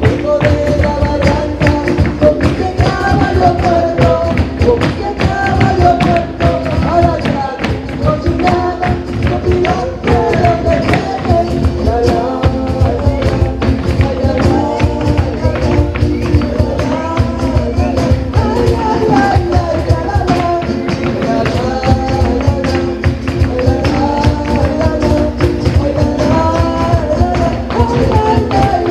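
A live band playing Latin American music, with a sung melody over a fast, steady percussion beat.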